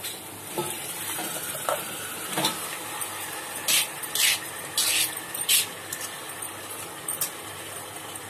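Marinated chicken pieces tipped and scraped from a steel plate into a hot pot of fried masala, sizzling steadily, with a couple of light metal knocks early on and several short, sharp bursts of hiss or scraping about halfway through.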